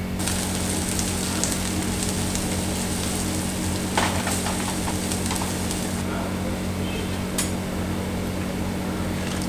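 Chopped vegetables (cabbage, capsicum, beans and carrots) sizzling in hot oil in a pan over a high flame while a wooden spatula stirs and tosses them, with scattered scrapes and taps on the pan. The sizzle is loudest for about the first six seconds, then softens once the stirring stops.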